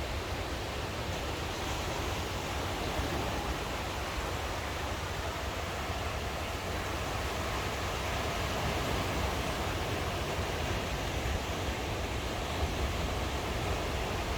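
Ocean surf washing steadily onto the shore, with a deep rumble underneath.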